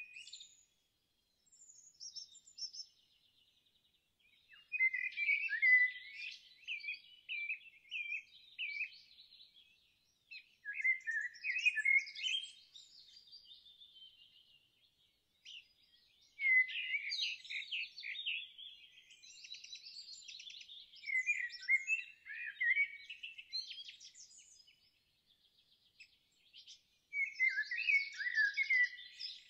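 Songbirds singing: a string of separate warbling phrases and fast trills, each a second or few long with short quiet gaps between them.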